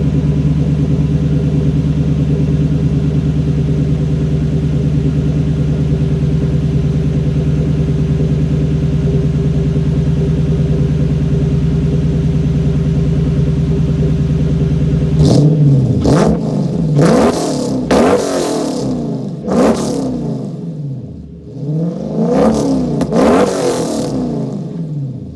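Lexus SC400's V8 idling steadily through IMF mid-length headers, a Magnaflow X-pipe muffler and a 2.5-inch side-exit exhaust. About two-thirds of the way in it is revved in a series of short, sharp throttle blips, followed near the end by a longer rev that rises and falls back.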